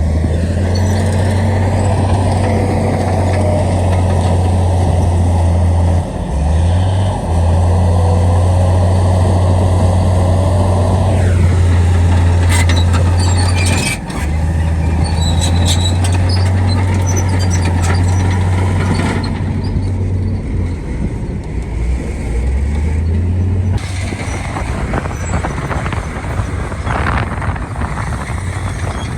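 Heavy diesel engines of earthmoving machinery running under load with a steady low drone that dips briefly a few times and shifts pitch near the end. Scattered short knocks and clicks come in around the middle.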